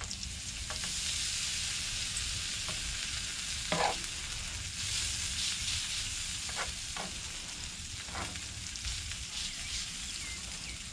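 Bacon and freshly added shredded hash browns sizzling on a hot electric griddle: a steady frying hiss, with a few short clicks as the hash browns are spread out.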